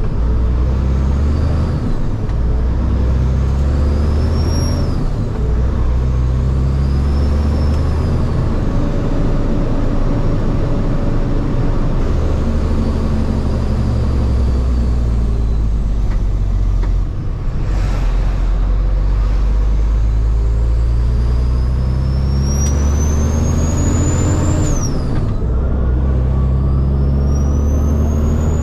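Kenworth T800 dump truck's Caterpillar diesel pulling through the gears: engine pitch climbs and drops back at each shift several times. A high turbo whistle rises with the throttle and falls away, most strongly near the end.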